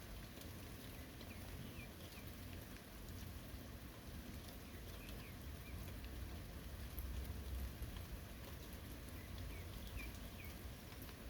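Steady early-summer rain falling on forest, an even hiss with fine drip ticks. A few faint short chirps come through at the start, in the middle and near the end.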